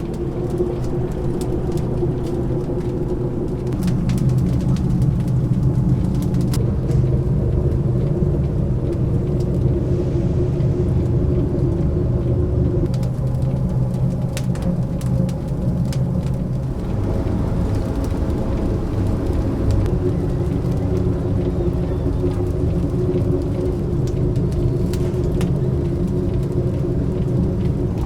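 A steady low mechanical hum and rumble with light, scattered crackling and ticking; the pitch of the hum shifts about halfway through.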